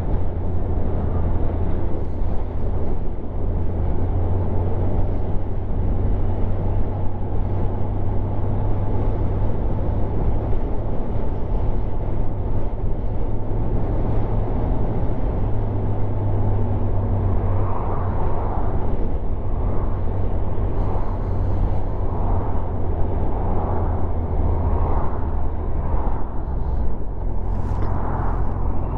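Kawasaki motorcycle being ridden at speed, heard as a steady low rumble of engine and wind rush buffeting the microphone.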